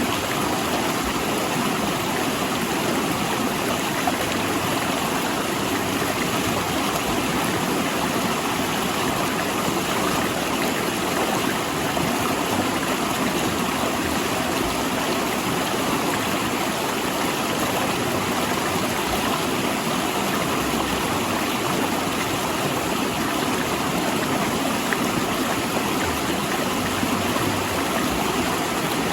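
Steady rush of a rocky river, water flowing fast between large boulders.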